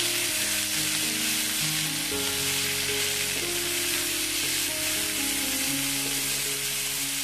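Ground chili and shallot spice paste sizzling in hot oil in a frying pan as it is stirred with a silicone spatula, being sautéed until cooked and fragrant. Background music plays underneath.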